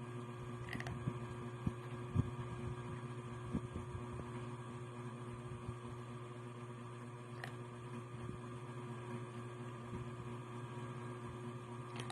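Steady low electrical hum, with a few faint soft clicks in the first few seconds.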